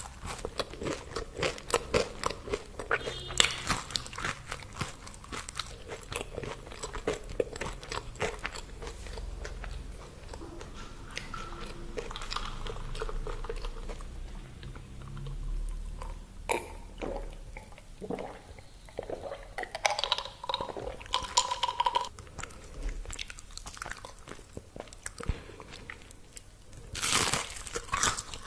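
Crunching and chewing of crispy fried food, with bite after bite crackling throughout and a louder burst of crunching near the end.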